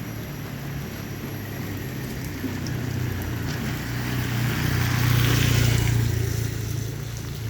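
A motor vehicle passing on a wet street: a low engine drone and the hiss of tyres on wet road swell to their loudest about five seconds in, then fade.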